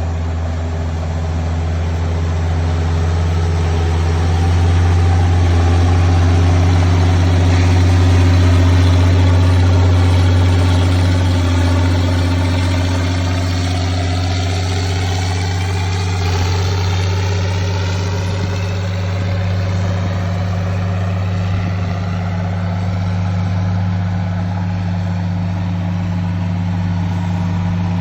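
A vehicle engine running steadily at an even pitch, loud and close, a little louder for a few seconds near the start.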